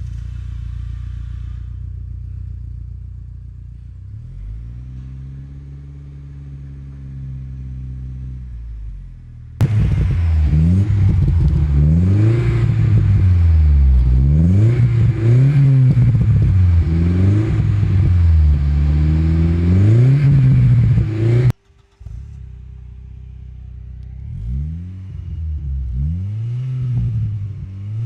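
Exhaust of an Audi 80 B4's 2.0-litre four-cylinder petrol engine through a FOX aftermarket exhaust system, idling and being revved. After a steady idle it is held at a raised rev for a few seconds. Then, suddenly louder, it is blipped up and down about eight times in quick succession. After a sudden cut it drops back to a quieter idle with a few more short revs near the end.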